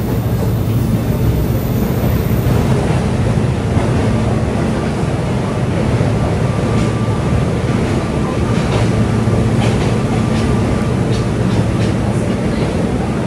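Cabin noise of an electric local train running along: a steady loud low rumble of wheels on rail. Partway through it runs into a tunnel, where a faint steady whine and scattered clicks come in over the rumble.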